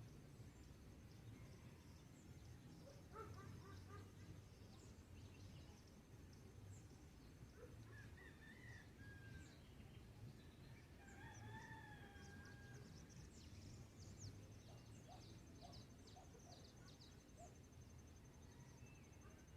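Faint dawn chorus: a rooster crows in the distance about midway, with short bird chirps scattered around it. A steady high, rapidly pulsing trill, likely an insect, drops out for a while in the middle and then comes back.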